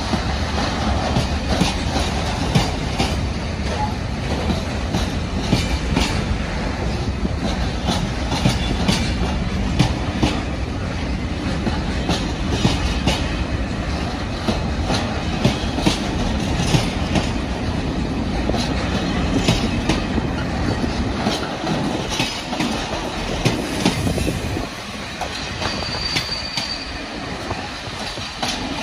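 Container freight train's loaded flat wagons rolling past, wheels clattering over the rail joints in a steady stream of clicks, with a brief high wheel squeal near the end.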